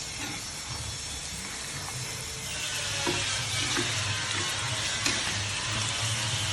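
Hot oil sizzling as pisang aroma (banana spring rolls) fry, growing louder a little under halfway in, with a few faint clicks.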